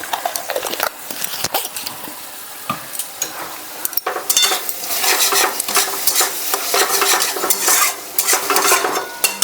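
A spatula stirring and scraping a sizzling sauce-and-vegetable masala in a kadai, with frequent clinks against the pan. The stirring gets busier about halfway through.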